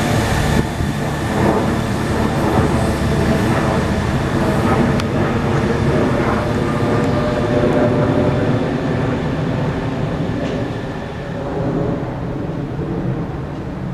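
A train running through the station, a steady loud rumble of wheels on track with several held whining tones over it, easing off slightly near the end.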